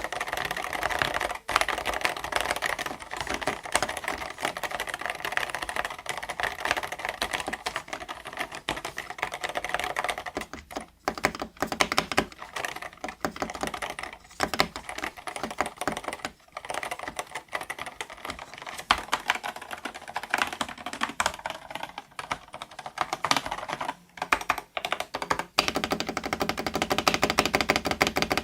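Typing sound test on an 8BitDo Retro Mechanical Keyboard M Edition fitted with Akko Rosewood linear switches: a steady stream of muted keystroke clacks, with a few short pauses and a fast flurry of keystrokes near the end.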